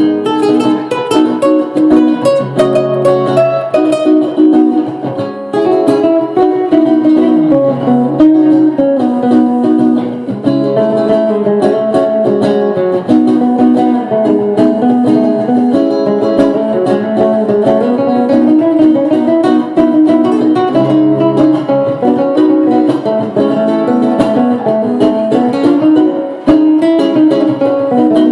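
Guitar played solo as an improvisation: a continuous run of plucked notes and chords.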